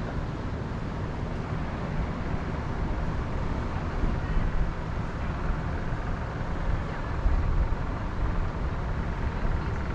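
Wind blowing through the forest, with a low rumble that swells in gusts about four seconds in and again near seven seconds.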